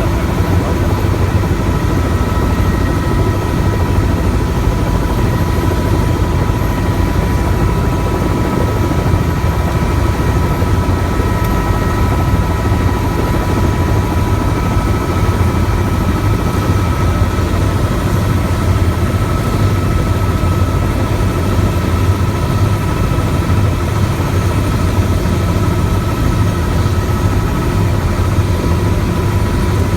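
Helicopter running: steady rotor and turbine engine noise with a constant high whine over a low rumble.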